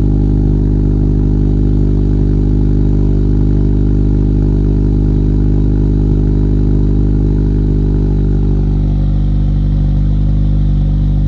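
Honda Accord 2.0T turbocharged four-cylinder idling steadily through a free-flowing aftermarket downpipe, front pipe and Thermal R&D cat-back exhaust, still on its cold-start idle.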